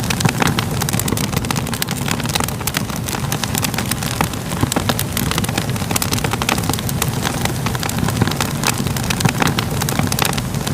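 Fire crackling: a steady low rumble of burning with many irregular sharp pops and snaps throughout.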